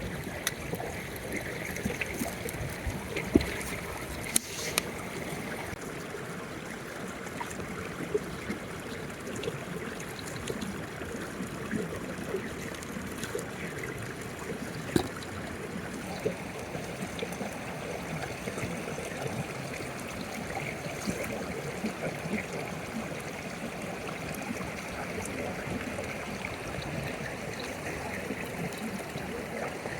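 Running water from a stream flowing steadily, with a few sharp clicks now and then.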